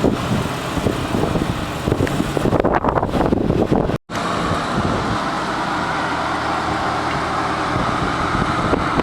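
Lamborghini Gallardo's V10 engine running at low speed: uneven for the first few seconds, then, after an abrupt cut about four seconds in, a steady, even running sound.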